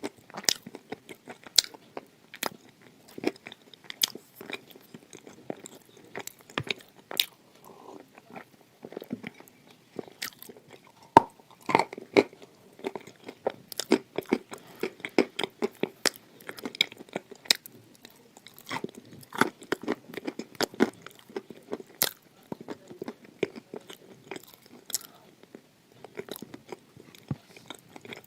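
Close-miked biting and chewing of edible khawa clay: sharp, irregular crunches as the hard clay breaks between the teeth, over steady chewing.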